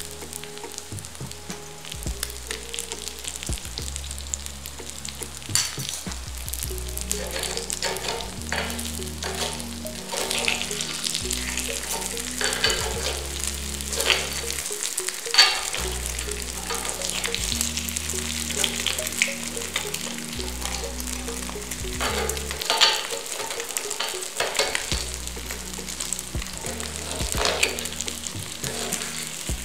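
Hoi krok batter cakes frying in oil in the wells of a multi-well pan, a steady sizzle. Sharp metal clicks and scrapes of a spoon in the pan come as the cakes are turned over, the loudest about halfway through.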